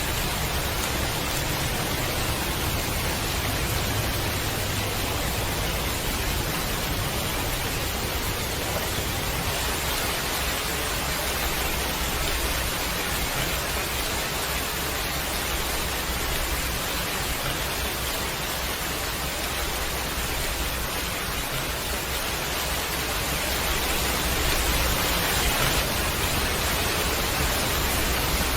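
Steady heavy rain, an even hiss with no distinct drops standing out, swelling slightly near the end.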